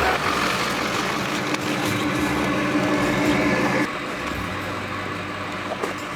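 Vehicle engine running with a steady drone that drops in level about four seconds in.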